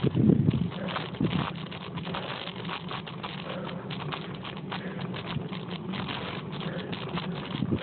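Bicycle riding uphill: steady wind buffeting on the camera microphone with irregular light rattling clicks, and louder gusts about the first half-second.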